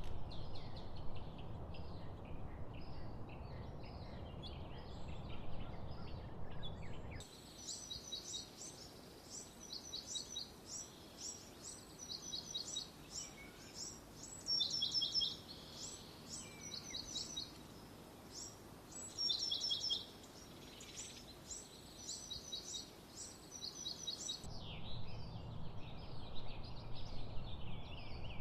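Birds singing and chirping over a low background rumble. For most of the middle the rumble drops away and repeated short, high trilled phrases from birds stand out, coming in quick groups, before the busier chirping and rumble return near the end.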